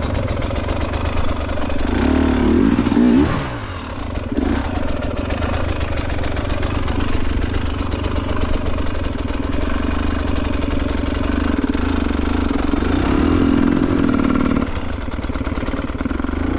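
Dirt bike engine running, the revs rising around two seconds in and dropping back, then rising again briefly near the end.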